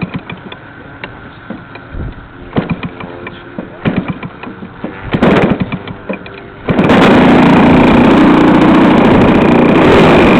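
Model airplane's gas engine idling, with short gusts of wind buffeting the microphone. About two-thirds of the way through the throttle is opened and the engine goes suddenly to a loud, steady full-power run for takeoff.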